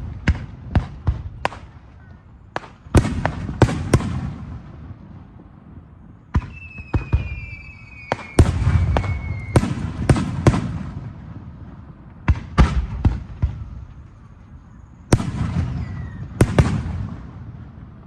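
Aerial fireworks bursting: clusters of sharp bangs with rumbling echoes between them. About six seconds in, a whistling shell sounds, its pitch gliding slowly downward for a few seconds.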